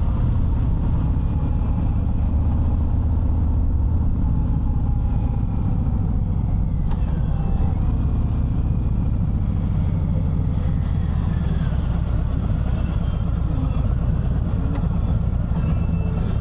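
Harley-Davidson Fat Bob 114's Milwaukee-Eight V-twin running steadily while riding, a loud low engine sound with faint shifts in pitch.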